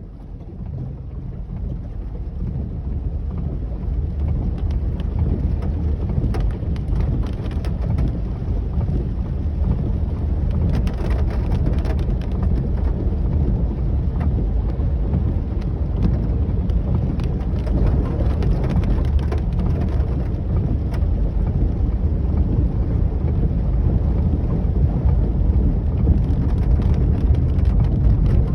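Heavy rainstorm: a steady low rumble of rain and wind on the microphone that builds over the first few seconds, with scattered drops ticking.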